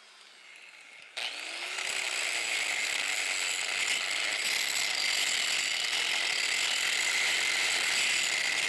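Angle grinder grinding down rough welds on the machine's steel. It starts quietly, then bites into the metal about a second in and keeps grinding loud and steady.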